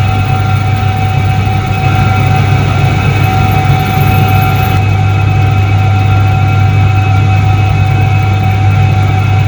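Soviet Iset-3 washing machine from 1978 running, its electric motor giving a loud, steady hum with a few constant higher whining tones.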